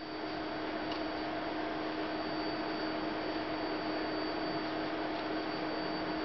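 Steady electrical hum over a constant hiss, with no other distinct sound.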